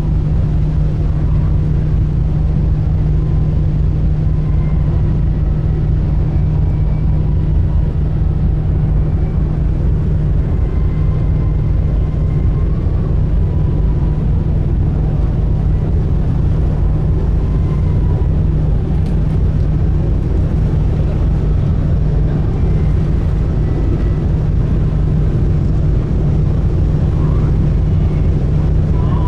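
Steady low drone of a large sightseeing cruise ship's engines, heard on board while under way.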